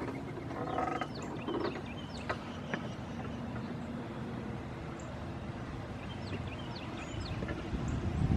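Small songbirds at feeders calling with scattered short, sharp chip notes, with a harsher, buzzy call in the first second or so. Near the end a rising whine and a low rumble start to build.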